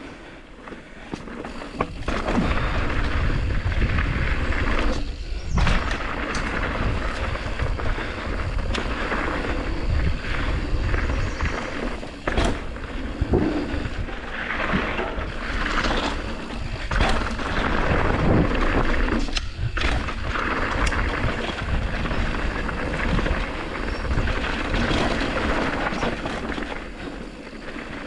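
Mountain bike riding down a dirt trail: wind rushing over the camera microphone and tyres on the trail, with sharp knocks as the bike rattles over rough ground. The rumble picks up about two seconds in.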